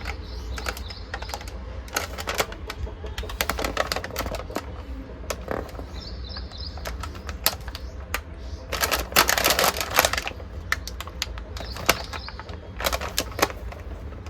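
Packaged snack being handled: a run of sharp crackles and clicks from a crinkling plastic snack wrapper and the crisp snack inside, densest and loudest about nine to ten seconds in.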